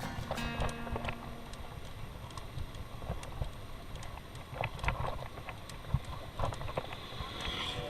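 Bicycle riding noise: a steady low rumble of wind and road with scattered short clicks and rattles.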